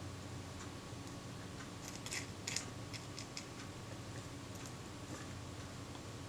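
Light clicks and taps of small tools and tiny metal camera parts being handled on a workbench, with a quick cluster of sharp clicks about two seconds in, over a faint steady hum.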